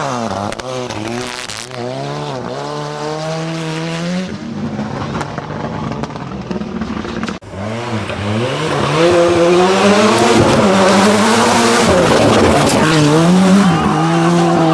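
Ford Sierra Cosworth rally car's turbocharged four-cylinder engine revving hard, its note climbing and dropping through gear changes as the car is driven flat out. About seven seconds in the sound breaks off abruptly and comes back louder, with more hiss-like noise mixed into the engine.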